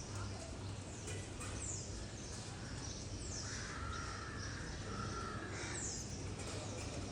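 Budgerigar calling: several short, high, falling chirps, with a longer warbling call between about three and a half and six seconds in.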